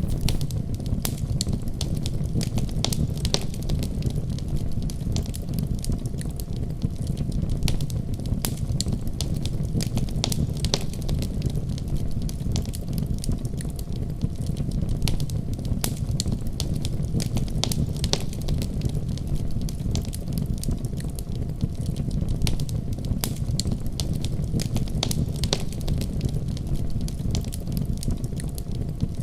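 Wood fire crackling in a fireplace: a steady low rumble of flames under frequent, irregular sharp pops and snaps.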